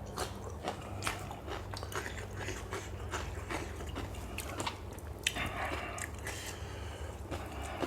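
A person chewing and biting a mouthful of spicy lotus-stem som tum with fresh shrimp close to the microphone, with irregular wet crunches and clicks, over a steady low hum.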